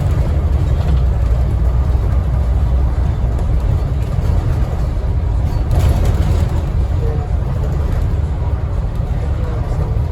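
Steady low engine and road rumble inside a moving Scania N270UD OmniCity double-decker bus, with its 9-litre five-cylinder diesel engine, and a brief louder hiss about six seconds in.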